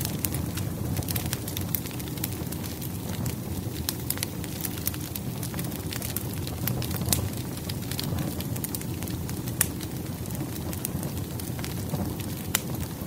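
Wood fire crackling: a steady low rumble of flames with irregular sharp pops and snaps of burning firewood.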